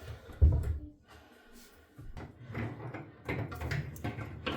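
Hand tools knocking and scraping against a faucet's supply-hose nut under a sink while it is being loosened: one heavy knock about half a second in, then a run of lighter, irregular knocks and scrapes.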